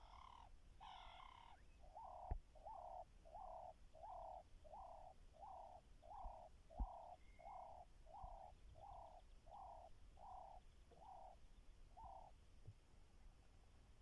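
A bird calling a long, even series of hooting coo notes, about one and a half a second, stopping about twelve seconds in. Two low thumps stand out, about two and seven seconds in.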